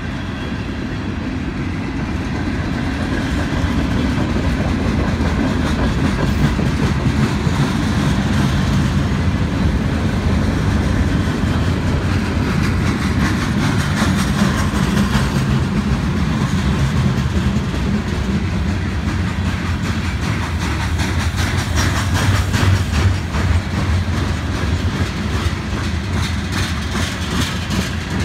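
Slow-moving freight cars of a CSX mixed freight rolling past: a steady low rumble of steel wheels on rail, with clicking as the wheels cross rail joints, coming thicker in the second half.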